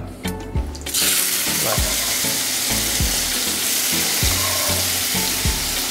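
Quartered cherry tomatoes sizzling steadily in hot olive oil in a frying pan, the sizzle starting suddenly about a second in.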